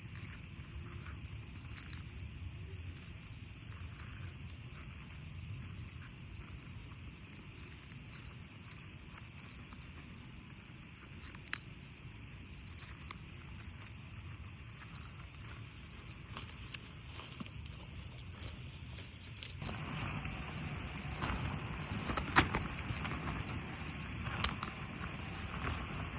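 Autumn crickets chirping in a steady high-pitched chorus, with a few sharp clicks along the way and a louder low rustle setting in about twenty seconds in.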